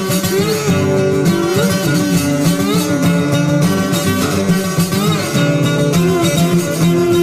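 Acoustic folk music led by guitar, an instrumental passage with a melody line that glides between notes.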